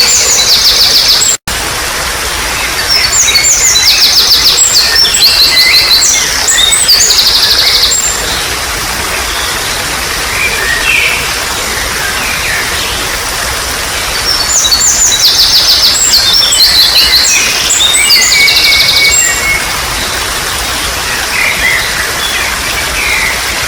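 A songbird singing in bouts of fast, trilling and chattering high phrases over a steady trickle of running water. The first long bout starts about three seconds in and the second comes in at around fifteen seconds, with softer calls in between. The whole sound cuts out for an instant at about a second and a half in.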